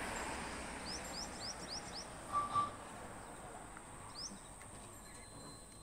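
Small bird chirping: a quick run of about five short, high chirps, then one more a couple of seconds later, over faint outdoor hiss. Two short, steady tones sound close together about halfway through.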